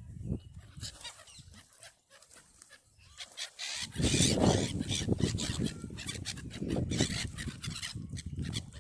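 Waterbirds calling, with a loud low rumble that takes over about four seconds in.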